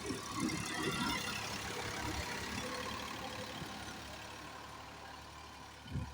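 A vehicle engine running steadily, growing gradually fainter over several seconds, with a thump near the end.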